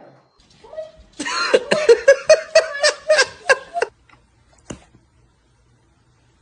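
A person laughing: a run of about a dozen quick, rhythmic ha-ha pulses lasting nearly three seconds, which stops abruptly. A single short click follows.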